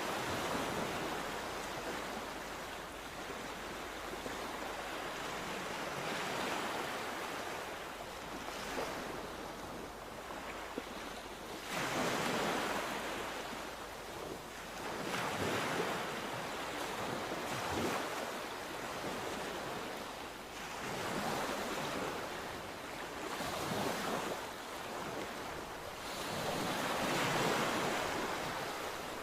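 Sea waves breaking and washing on the shore, the surf swelling and falling back every few seconds, with some wind rumble on the microphone.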